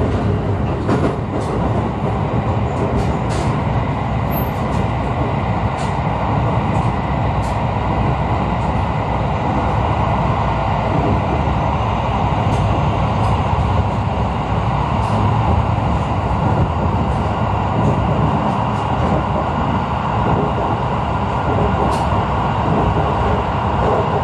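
Steady running noise of a train heard from inside the passenger car: wheels on the rails and a continuous rumble, with a few faint ticks now and then.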